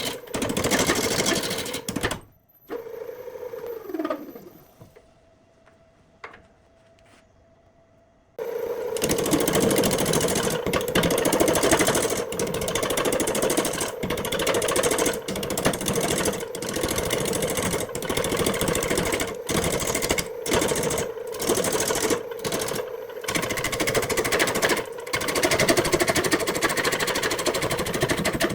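An electric woodworking power tool running loudly, switched off about two seconds in and winding down with a falling whine, then quiet for a few seconds before it starts again and runs on.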